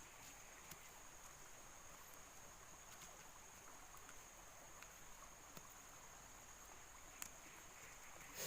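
Near silence with a faint, steady, high-pitched insect drone and a few scattered faint clicks.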